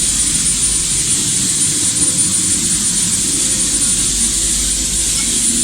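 A power grinder running flat out with a steady high-pitched whine and hiss, already up to speed.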